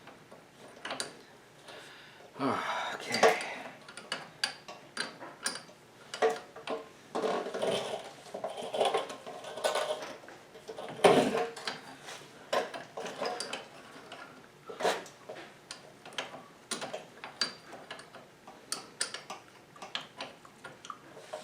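Metal parts and hand tools clinking and knocking at an irregular pace, with spells of handling and scraping in between, during work on a VW front beam's link and king pins.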